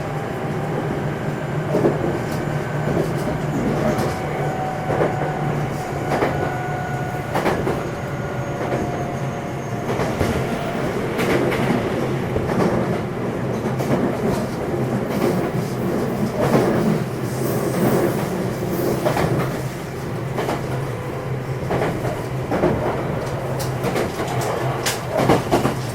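Running sound inside a JR West 227 series electric multiple unit motor car (Hitachi IGBT VVVF inverter): steady rolling noise with repeated clicks of the wheels over rail joints, and a faint whine from the traction drive in the first ten seconds.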